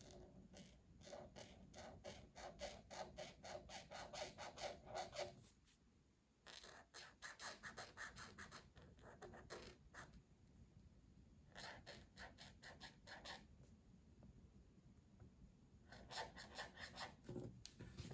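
Faint scratching of colouring strokes on paper: quick back-and-forth shading strokes at about four a second, in four runs with short pauses between.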